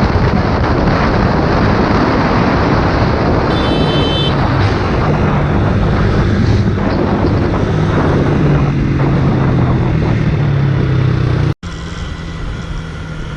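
Motorcycle riding at speed, with heavy wind rush on the rider's microphone over a steady engine hum. A brief high tone sounds about four seconds in. The sound cuts out abruptly near the end, and quieter riding noise follows.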